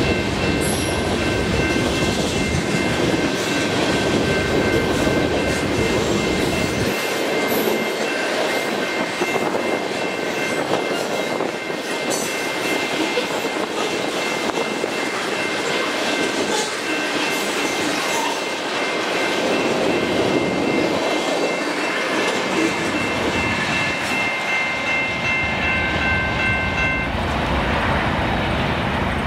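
Freight cars rolling past on jointed rail, wheels clattering, with a steady high-pitched squeal held over the rumble. The squeal stops near the end as the last car goes by, leaving road traffic noise.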